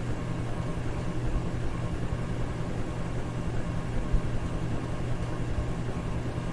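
Electric fan running steadily: an even rushing hiss over a low, constant hum.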